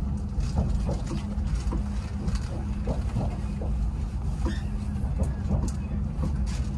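Inside a moving SNCF regional train: a steady low rumble of the wheels running on the track with a steady hum, and scattered light clicks and knocks.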